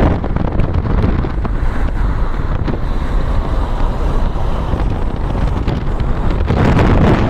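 Wind buffeting the microphone: a loud, gusty low rumble that swells again near the end.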